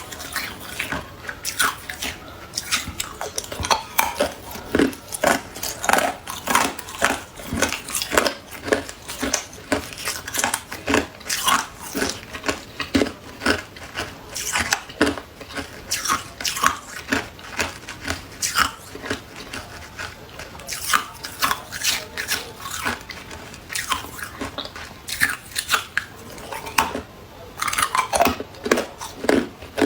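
A person biting and chewing hard clear ice: a continuous run of sharp crunches and cracks, a few a second.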